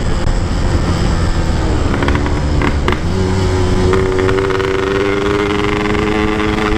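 Motorcycle engine running under load while riding, with wind rumble on the microphone. About three seconds in, its note settles into a steady hum that climbs slowly in pitch.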